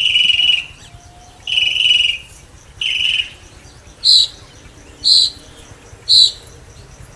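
Caged birds calling repeatedly. First come three harsh, buzzy calls about half a second long. Then, from about four seconds in, come three short, higher-pitched calls about a second apart.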